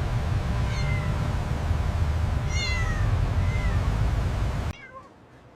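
A kitten meowing three times, short high cries that fall in pitch, over a steady low rumble that cuts off suddenly near the end.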